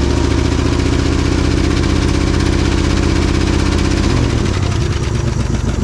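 Ford FE big-block V8 in a 1967 F100 pickup idling steadily; the engine speed dips slightly about four seconds in. It is missing on one cylinder after more than 20 years of sitting, which the owner suspects is a stuck intake or exhaust valve.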